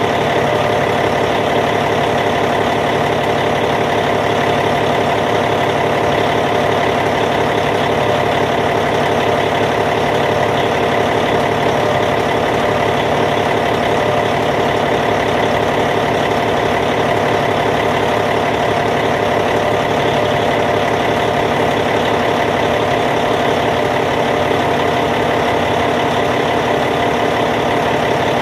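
Caterpillar C15 diesel engine of a Cat D8T bulldozer idling, steady and unchanging.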